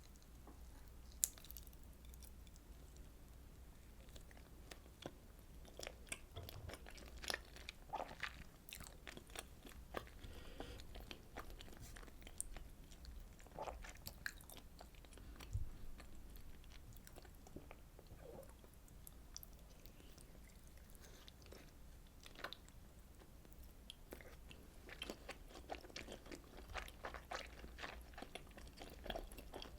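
A person chewing and biting pieces of fish cake and rice cake from Korean fish cake soup: soft wet mouth sounds with scattered sharp clicks, busier near the end.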